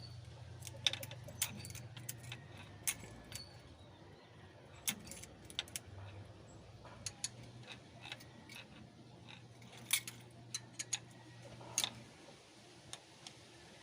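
Irregular sharp metallic clinks and taps of hand tools working on an Isuzu 4BA1 engine's valve gear, over a steady low hum that stops about twelve seconds in.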